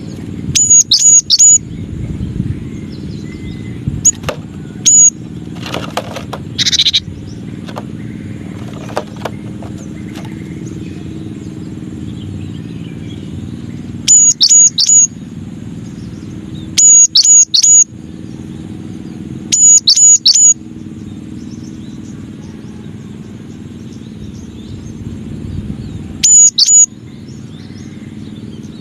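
Cinereous tit (gelatik batu) singing: five short bursts of two or three sharp, high whistled notes, spaced several seconds apart, over a steady low background rumble.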